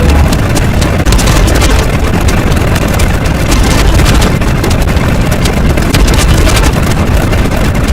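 Loud, steady rumbling noise, heaviest in the bass, with no clear pitch.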